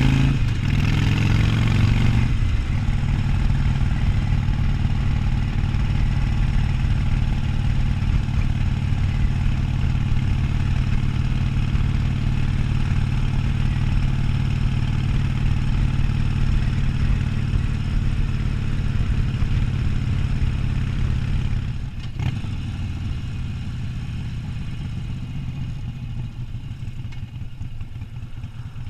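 Harley-Davidson Sportster 1200's air-cooled V-twin running under way. Its note falls over the first couple of seconds, then holds steady for a long stretch; after a short click about 22 seconds in, the level drops and keeps easing down as the engine slows.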